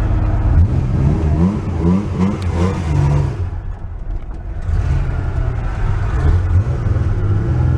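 Porsche 911's air-cooled flat-six engine revving in a series of quick rising sweeps, then easing off briefly and running on steadily. It runs with a little stutter, which the owners put down to only five of its six fuel injectors having been replaced.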